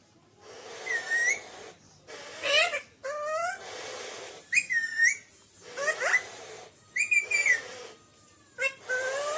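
Alexandrine parakeet calling: a string of about seven short whistled calls with gliding, bending pitch, each with a raspy edge, roughly one a second.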